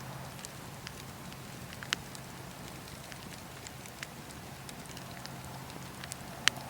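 Campfire burning: a steady hiss with scattered crackles and sharp pops from the burning wood. The loudest pops come about two seconds in and near the end.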